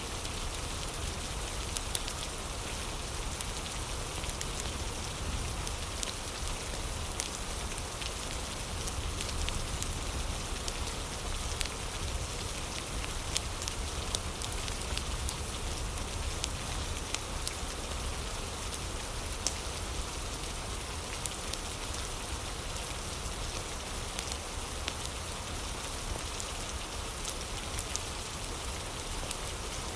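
Steady rain with a crackling fire mixed in: an even hiss, frequent sharp clicks and crackles scattered throughout, and a low rumble beneath.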